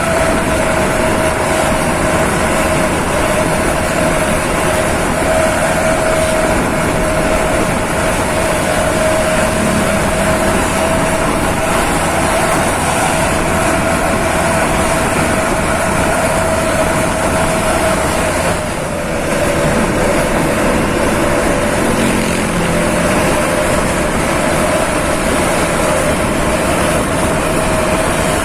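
Bus under way: steady engine and road noise with a constant whine, dipping briefly about nineteen seconds in.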